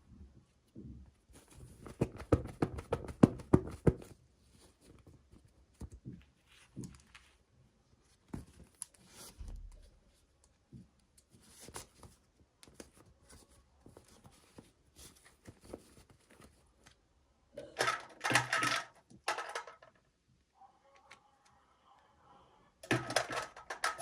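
Packaging being torn open and handled: a dense run of tearing and crinkling early on, scattered rustles and clicks, and two louder crinkling bursts, one about three quarters of the way through and one near the end.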